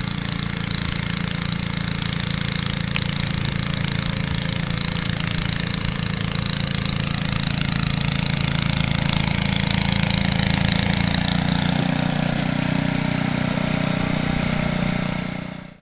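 Small snowblower engine running steadily, with a pulsing low rumble and a hissing spray of snow over it, swelling slightly about ten seconds in.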